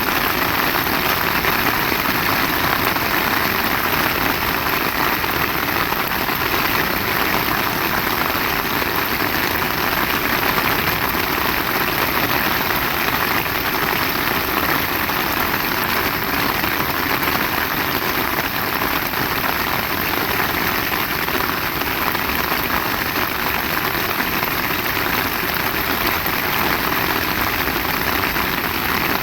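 Heavy rain pouring steadily, a dense even hiss and patter that does not let up.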